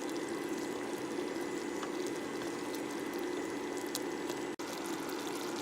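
Caramel sauce of cooked sugar, milk and butter bubbling as it simmers in a pot, thickening, with a fine crackle over a steady hum. The sound drops out for an instant about four and a half seconds in.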